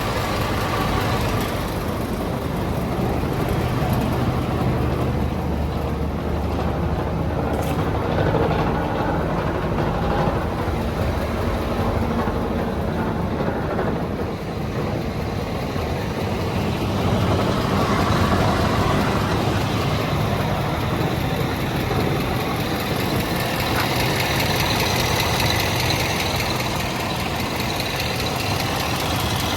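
Scania P320 truck's diesel engine running steadily at idle.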